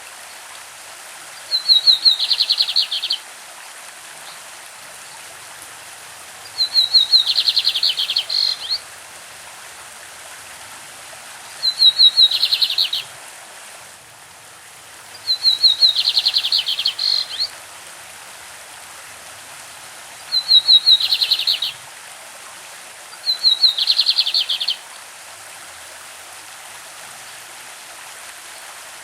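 Lined seedeater (bigodinho) singing its classic song: six short phrases, each a quick run of high notes falling into a fast trill, a few seconds apart. A stream runs steadily underneath.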